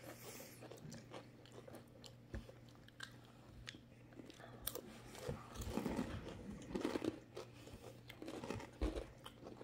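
Crispy tempura seaweed snack being bitten and chewed, a faint, irregular crunching that gets louder and busier about halfway through.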